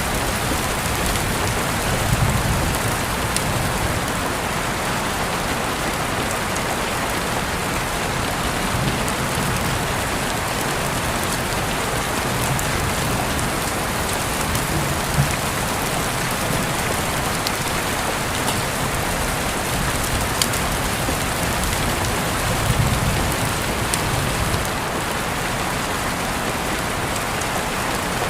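Steady rain falling on a surface, an even hiss with scattered individual drops ticking. A brief low rumble swells about two seconds in and again near the end.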